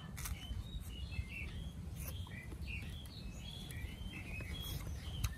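Crunchy fresh rose apple being chewed, with a few sharp crunches, while small birds chirp over a steady low rumble.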